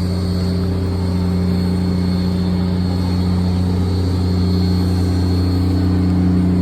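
A large engine running steadily at idle: an even, low, pitched drone that holds without change.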